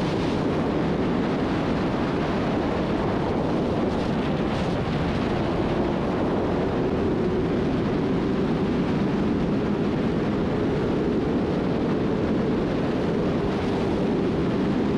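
Sport bike riding at high speed: a steady rush of wind noise over the microphone with the engine running underneath, its note holding a steady pitch from about halfway through.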